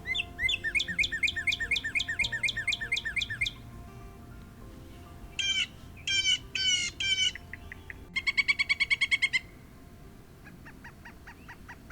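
Bird voices played one after another: a northern cardinal's song of rapid repeated down-slurred whistles for about three and a half seconds, then four harsh blue jay calls, then a quick series of pileated woodpecker calls, and a fainter run of notes near the end. Soft background music runs underneath.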